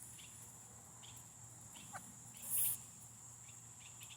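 Faint, soft clucking from polled tolbunt chickens over a steady high insect drone, with a brief hissing rustle about two and a half seconds in.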